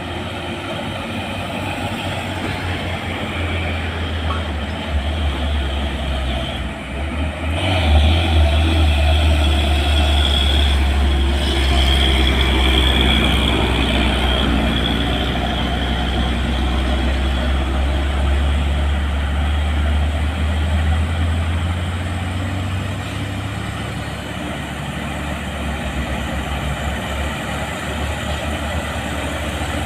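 Heavy diesel engines of trailer trucks loaded with concrete piles, labouring uphill in a deep, steady rumble. The rumble grows louder about eight seconds in and eases off after about twenty-two seconds.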